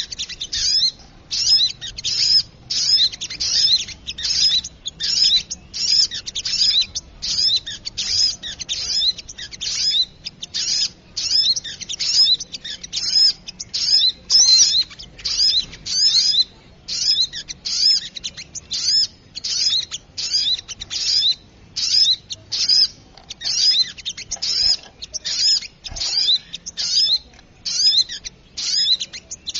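Bird-lure recording of the sogok ontong (little spiderhunter) calling rapidly: sharp, high, chirping notes repeated about twice a second without pause.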